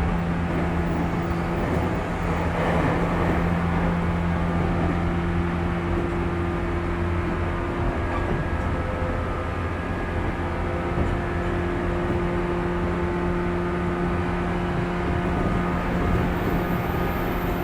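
Inside a 415 series electric multiple unit's motor car running between stations: a steady hum at constant pitch from the traction motors and gears, over the rumble of wheels on the rails.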